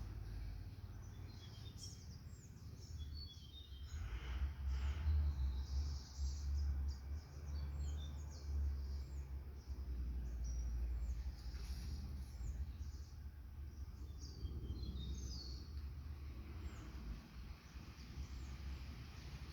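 Small birds chirping, with many short high calls repeated throughout, over a steady low rumble.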